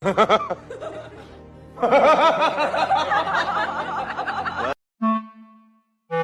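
Giggling, chuckling laughter, then a short music note about five seconds in.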